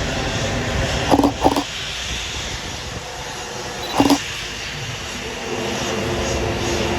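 Airliner jet engine noise, a steady rush, with three short pitched sounds: two close together about a second in and one at about four seconds. A steady low hum comes in near the end.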